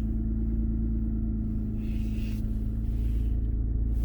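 2006 Saturn Vue Redline's V6 idling steadily shortly after a cold start, with a constant low hum. It has an exhaust leak at the flange from a rusted stud, which the owner says makes it a little loud.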